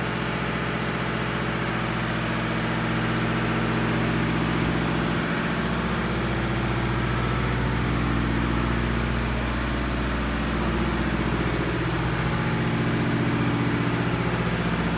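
Deutz F6L912W six-cylinder air-cooled diesel engine running steadily at an even speed, getting a little louder a few seconds in.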